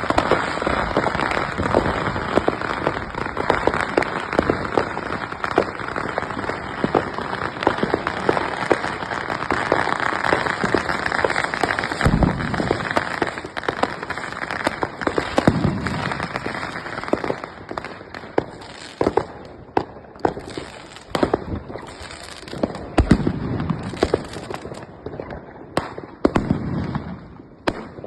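Fireworks and firecrackers going off: a dense, continuous crackle of bangs with a few deeper booms among them, thinning out in the last third to separate bangs.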